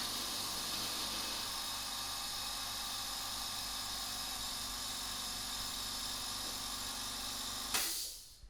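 Stanley 24-litre silenced air compressor running steadily with an even whir and low hum, then stopping near the end.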